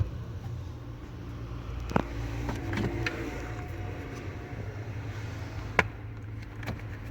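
A vehicle engine running steadily with a low hum, with two sharp clicks, one about two seconds in and one near the end.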